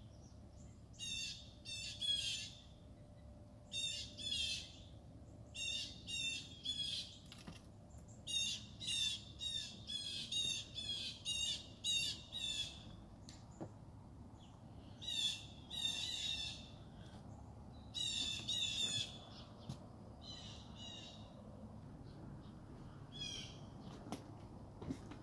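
A bird calling over and over, in quick runs of two to six short notes with brief pauses between runs.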